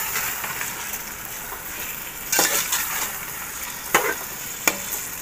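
Chicken and potato masala sizzling in hot oil in a metal pot while being stirred and fried down (bhuna) with a metal spoon. The spoon scrapes the pot and knocks sharply against it about three times.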